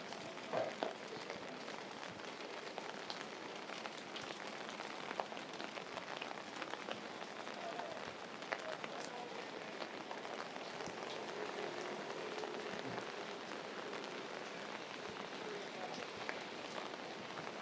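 Steady rain falling on wet pavement and surfaces, with scattered ticks of individual drops.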